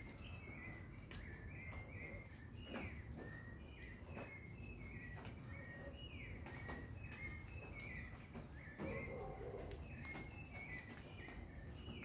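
Small birds chirping over and over in quick, short, falling notes, with a steady low rumble of background noise beneath them and scattered sharp clicks.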